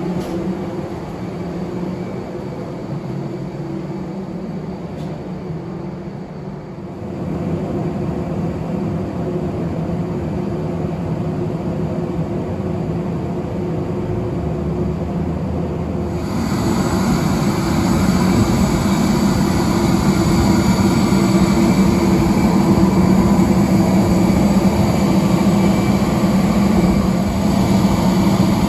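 Airbus A321neo jet engine noise: a steady rumble with a few faint steady tones, growing louder in two steps, about seven seconds in and again about sixteen seconds in.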